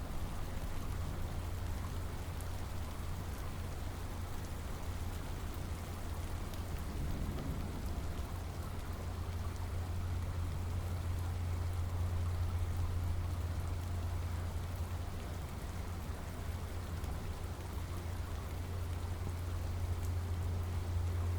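Steady rain falling and pattering on surfaces, with a continuous low rumble underneath.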